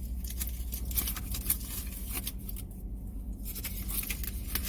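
The wrapper of a brisket wrap crinkling and rustling in irregular small clicks as the wrap is folded back up by hand, easing off briefly about two-thirds of the way in.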